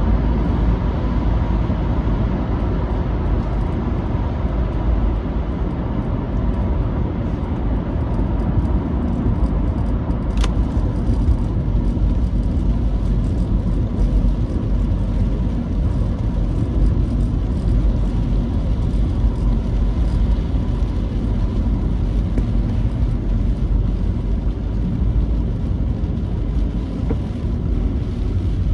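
Vehicle driving on a rain-wet road: a steady low rumble of road and running noise, with a single sharp click about ten seconds in.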